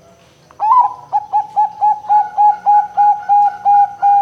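Zebra dove (perkutut) singing: an opening note about half a second in, then a fast run of about a dozen short, clipped cooing notes, roughly four a second, with the last note drawn out.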